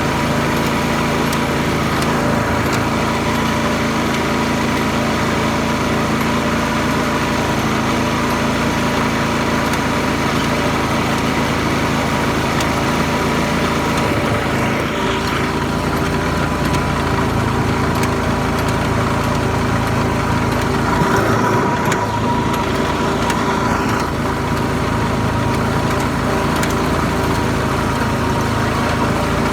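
Garden tractor engine running steadily, with its pitch shifting slightly about halfway through and again a few seconds later.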